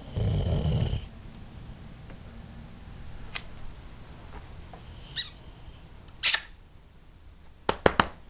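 Sleeping dog snoring: one loud, rough snore in the first second, then softer breathing. Several sharp clicks or knocks come later, three in quick succession near the end.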